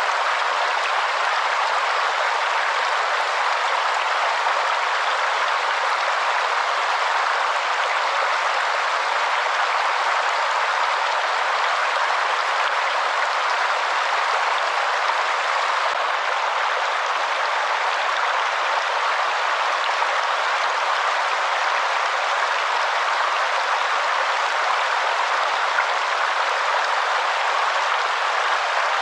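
Waterfall: a steady, unbroken rush of falling water, with no deep rumble.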